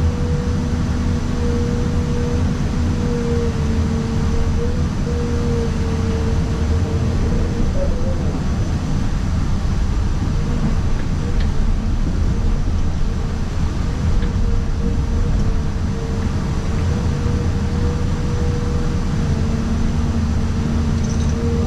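Excavator's diesel engine and hydraulics running steadily, heard from inside the cab, a low drone with a steady tone over it.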